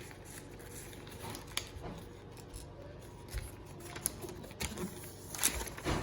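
A sheet of paper being folded and creased by hand: soft rustling with a few short crackles and taps, the loudest near the end.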